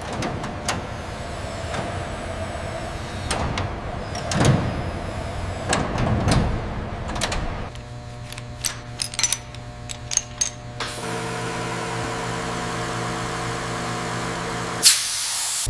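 Machine ambience: clicks and knocks over a noisy background, then from about eight seconds in a steady electrical hum with a low drone, with a run of sharp clicks over it and a brief loud hiss near the end.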